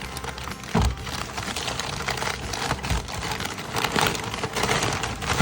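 Paper crinkling and rustling as a present is unwrapped, in irregular crackly handfuls with a couple of soft knocks.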